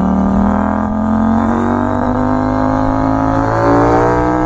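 CFMoto 800MT Touring's KTM-derived 799cc parallel-twin engine pulling hard under acceleration. The pitch climbs steadily through one gear and drops just at the end as the next gear goes in.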